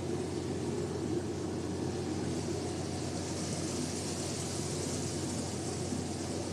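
Steady machinery drone aboard a Taiwanese squid-fishing vessel, a constant low hum with an even hiss over it.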